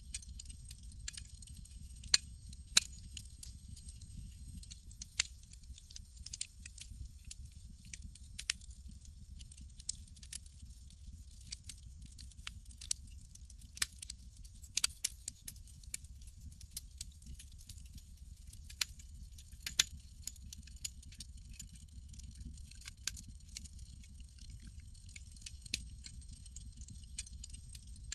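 Campfire crackling: irregular sharp pops and snaps over a low, steady rumble of the fire.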